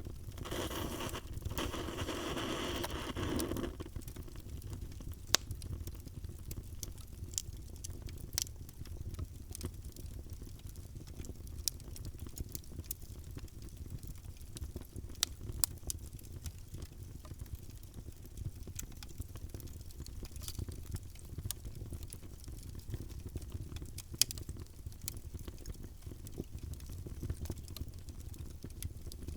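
Wood fire burning in a fireplace: a steady low rumble with scattered sharp pops and crackles. A brief hissing rush comes in the first few seconds.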